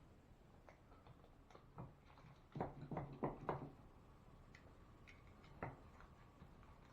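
A few faint clicks and knocks in a quiet room: a quick cluster of four or five about two and a half seconds in, and one more click near the end.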